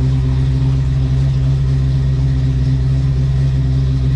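Ford 5.0 V8, fuel-injected with a Holley Terminator X system, idling steadily. The idle spark control is swinging the timing around 15–16 degrees to hold it at the target idle speed.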